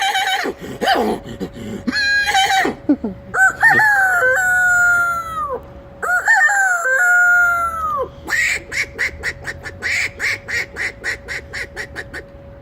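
A man imitating a rooster with his voice: a few short calls, then two long drawn-out crows that fall away at the end, followed by a rapid run of clucks, about four a second, in the last few seconds.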